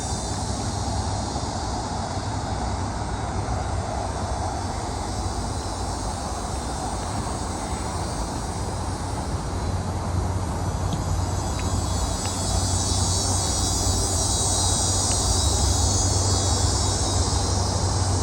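Distant aircraft engine drone, low and steady, growing louder over the second half. A steady high-pitched hiss runs beneath it.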